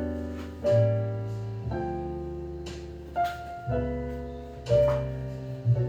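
Background jazz piano music: chords struck about once a second, each ringing and fading before the next.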